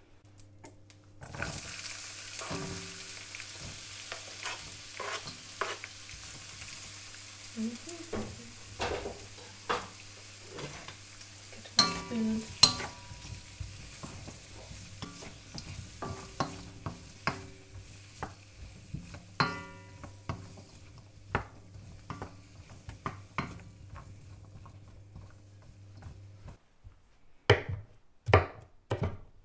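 Food sizzling in a hot wok while being stirred and tossed, the utensil clacking and scraping against the pan, over a steady low hum. Near the end the sizzling stops and a knife chops on a board a few times.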